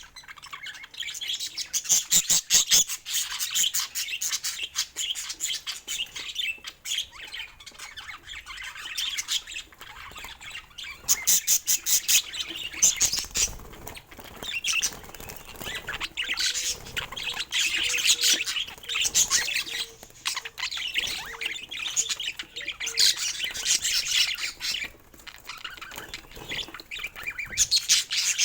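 Budgerigars chattering and squawking: fast, high-pitched runs of chirps and scratchy calls that come and go in stretches of a few seconds.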